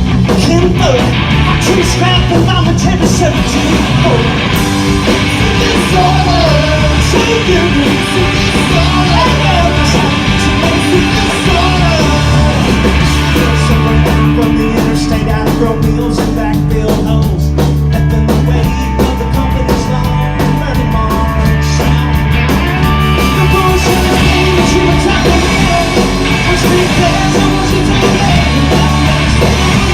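A punk rock band playing live and loud, with shouted singing over the band in the first part and a mostly instrumental stretch in the middle.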